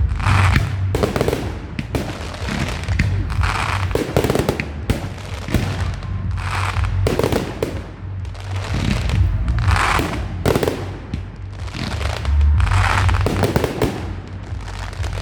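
Fireworks display: a continuous run of bangs and crackling bursts, roughly one every second or so, over a low rumble.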